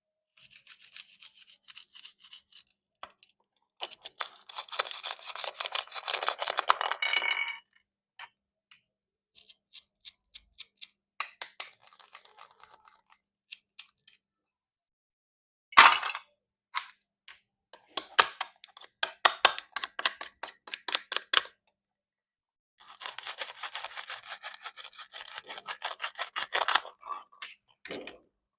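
Plastic toy fruit being cut with a knife: bursts of rapid crackling and scraping as the blade works through the plastic, with one sharp snap about halfway through.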